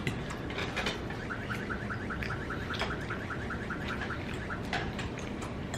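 Cutlery clicking against a plate during eating, with a rapid string of faint, short rising chirps, about four a second, starting a little over a second in.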